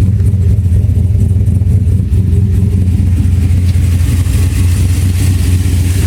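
Turbocharged 2002 Chevrolet Silverado's engine idling steadily, a loud, even low hum.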